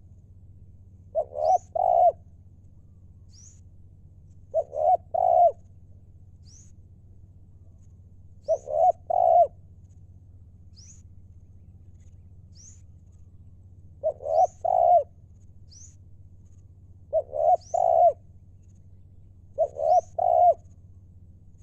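Spotted dove cooing: six short phrases of two or three low, rounded notes, repeated about every three seconds. Faint, high chirps from a smaller bird come between them.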